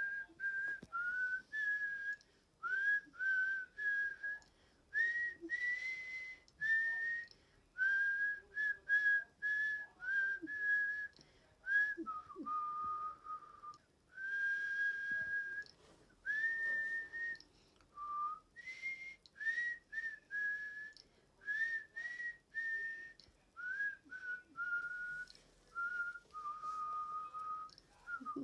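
A person whistling a tune: a string of clear held notes that step up and down in pitch, with short breaks between phrases.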